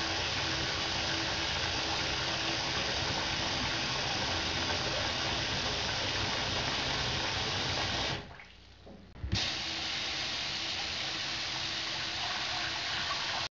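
Steady rush of running water. It drops away briefly about eight seconds in and comes back with a short knock.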